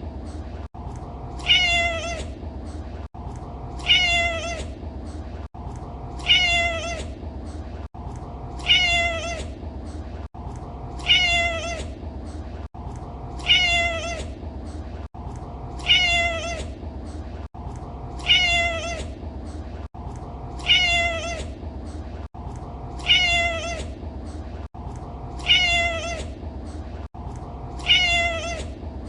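A domestic cat's meow, the same short call repeated identically about every two and a half seconds like a loop, over a steady low hum.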